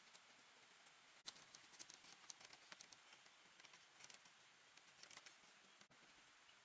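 Faint hiss with scattered small, sharp clicks and ticks, irregular, starting about a second in.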